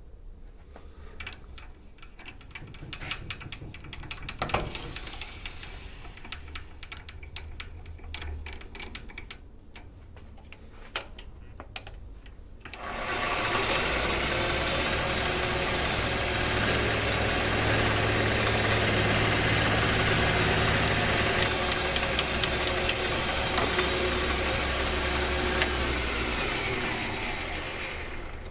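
Scattered clicks and knocks of handling, then about halfway through a motorised machine starts and runs steadily, tapering off near the end.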